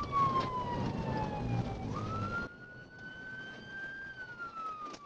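Police car siren wailing, its pitch sliding slowly down and then back up, over the noise of the car on the move; the car noise drops off about two and a half seconds in, leaving the siren.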